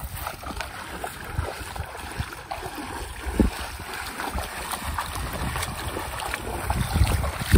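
Wind rumbling on the microphone over shallow sea water splashing and sloshing, as of people wading out through it.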